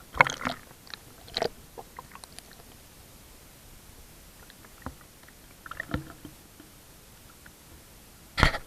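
Water sloshing and splashing against a kayak, with knocks against the hull, in a few short separate bursts.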